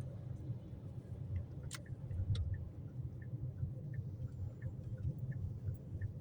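Car cabin on a snowy highway: steady low road and engine rumble as the car drives, with two sharp clicks about two seconds in and faint quick ticking.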